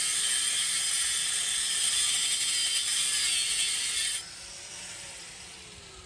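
Power tool cutting through steel exhaust pipe, a steady high-pitched grinding-cutting noise that stops abruptly about four seconds in, followed by the tool's motor winding down with a falling whine.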